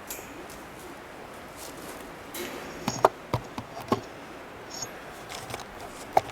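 A few sharp snips and clicks from a hand cutting tool, most of them close together about three seconds in and one more near the end.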